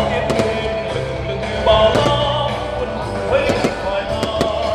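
Loud music playing, with sharp fireworks cracks going off again and again over it.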